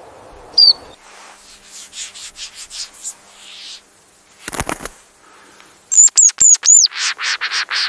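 Small bird fluttering its wings in several quick bursts, with one high chirp about half a second in and a run of about five quick, high chirps near the end.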